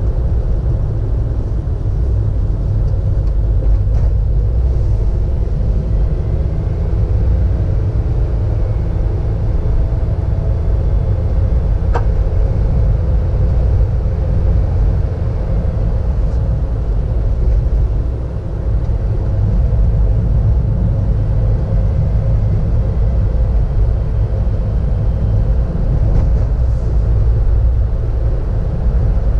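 A car driving, with steady low engine and road rumble heard from inside the cabin, and a single sharp tick about twelve seconds in.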